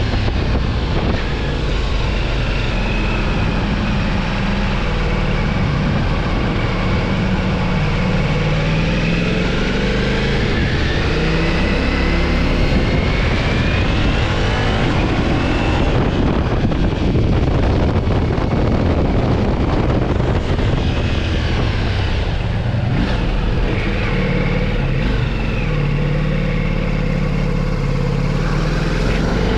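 Ducati Multistrada V4 S motorcycle engine heard while riding, its note rising and falling as the rider speeds up and slows, under a steady rush of wind on the microphone.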